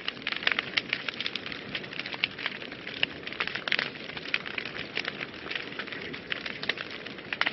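Wood fire burning in a fireplace, crackling steadily with many sharp irregular pops over a low rushing of flames.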